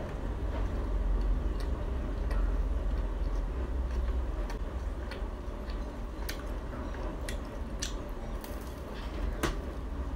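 Close-up chewing and biting of a crispy fried Khmer cake, with scattered crisp clicks and crunches, the sharpest about nine and a half seconds in. A steady low hum runs underneath.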